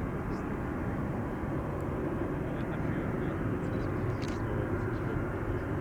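Boeing 777-200ER jet engines running, heard as a steady low rumble with no rise or fall.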